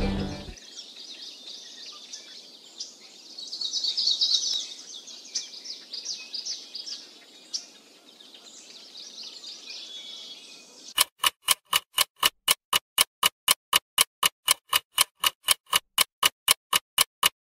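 Birds chirping and twittering. About two-thirds of the way through, a louder, rapid, even ticking starts, about four beats a second.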